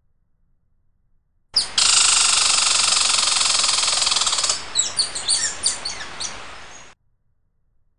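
A songbird singing close by: a loud, rapid buzzing trill for about three seconds, then a quick run of separate chirps. It starts and stops abruptly.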